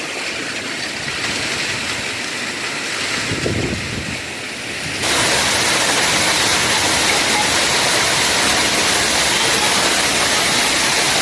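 Heavy storm rain with strong wind, a steady rushing hiss, with a brief low rumble a little over three seconds in. It suddenly gets louder about five seconds in and stays so.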